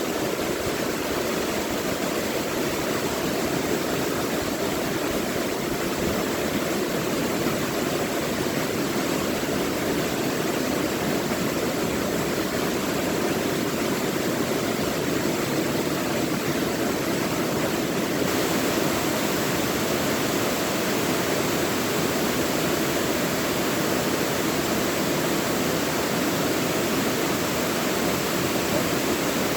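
Mountain valley stream running steadily, a continuous even rush of water.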